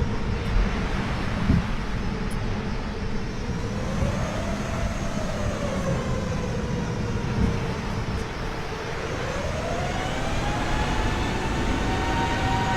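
Jet airliner cabin noise: a steady rumble with a whining engine tone that wavers and then rises in pitch about nine seconds in.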